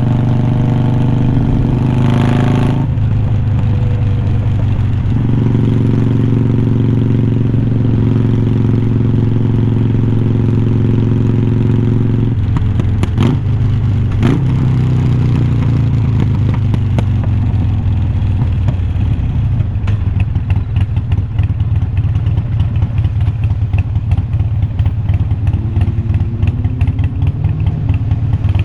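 Harley-Davidson Iron 1200's V-twin engine through unbranded glass-pack slip-on mufflers while riding. The revs climb and drop at a gear change, then hold steady at cruise. Later it runs at low revs with a fast, pulsing exhaust beat, picking up again near the end.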